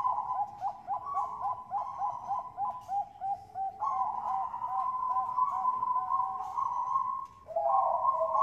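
Bangkok-type perkutut (zebra dove) cooing: a fast run of short, hooked notes, about four a second. The notes break off briefly near the end and then start again.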